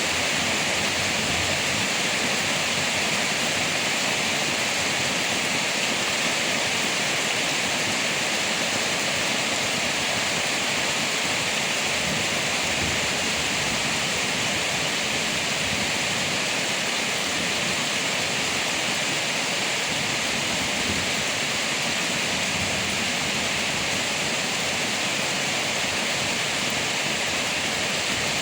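Rain falling on leaves: a dense, even patter with no single drops standing out.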